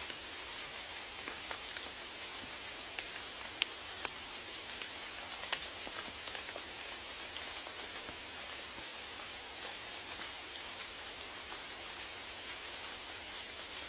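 Steady rain: an even hiss with scattered raindrops ticking sharply, a few louder drops about three and a half and five and a half seconds in.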